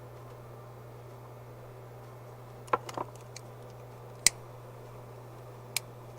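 A few sharp clicks and small taps from tools and wire being handled on a soldering bench, the loudest a single crisp click a little past the middle, over a steady low hum.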